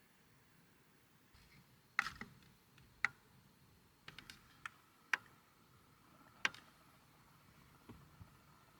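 A quiet room with scattered sharp clicks and taps, about eight of them at irregular intervals, like small hard objects being handled and set down.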